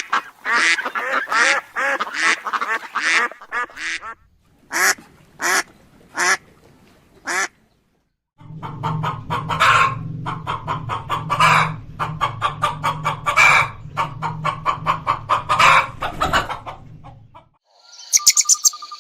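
Domestic poultry or waterfowl calling in two separate clips. First comes a run of repeated calls, about two a second, thinning to a few spaced calls, then a brief silence. From about halfway, quick dense calls sound over a steady low hum.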